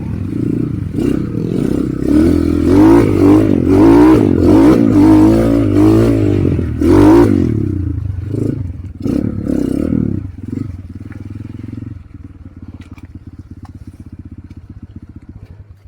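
Motorcycle engine revved hard several times, its pitch rising and falling. It drops to a quieter, steady idle about twelve seconds in, then cuts out just before the end.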